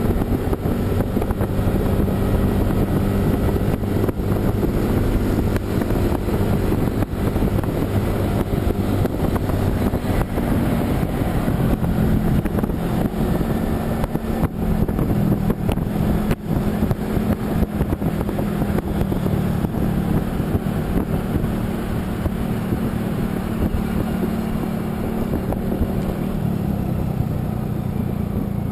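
A motor vehicle's engine running steadily while driving along a road, with a rough, gusty rushing noise over the engine drone.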